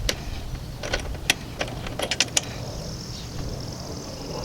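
Sharp metallic clicks and clinks of hand tools and rear brake parts being fitted back on, several in the first half. In the second half a steady high-pitched tone sits over a low rumble.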